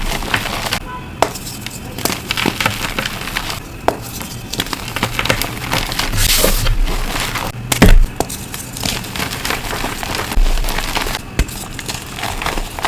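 Reformed gym chalk blocks being crushed: a dense run of dry crunching and crackling, with a louder crunch about eight seconds in.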